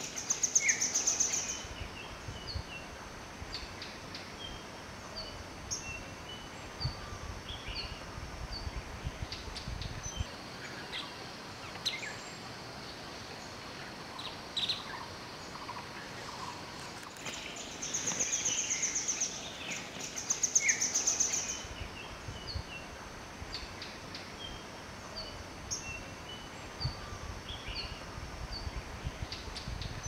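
Wild birds calling: scattered short, high chirps and squeaks throughout, with a loud, rapid high-pitched trill twice, right at the start and again past the middle.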